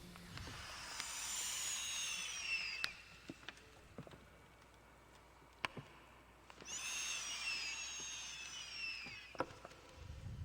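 Two long high whistles, each falling in pitch over about two and a half seconds, with sharp cracks and pops scattered between them and a low rumble near the end.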